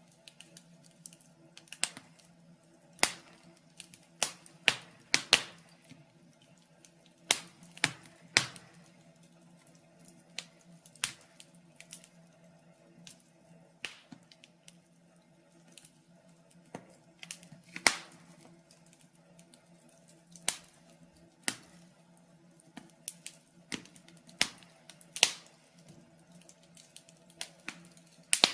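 Wood fire crackling: irregular sharp pops and snaps of burning logs, about one a second, over a faint steady low hum.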